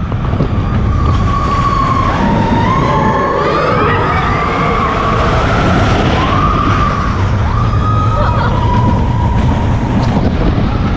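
Riders on the Expedition Everest roller coaster screaming in long, wavering cries. Under the screams are the rush of wind and the rumble of the coaster train.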